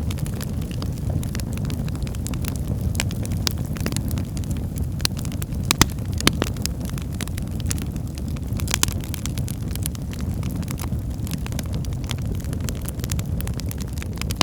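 Firewood burning in a fireplace: a steady low rumble of flames with constant crackling, and two sharper pops near the middle.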